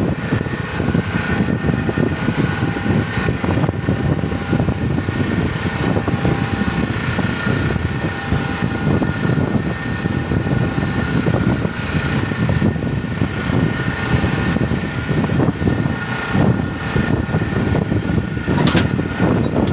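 Boat engine running steadily, with a dense, continuous noise.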